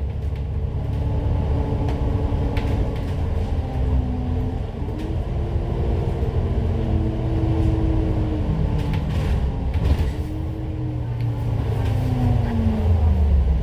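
Citybus bus engine and drivetrain running under way, with a low rumble and a whine that rises and then falls as the bus speeds up and slows.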